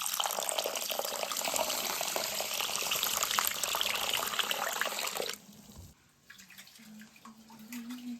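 Water splashing into a pot of rice to wash it, which stops abruptly about five seconds in. Faint scattered clicks follow.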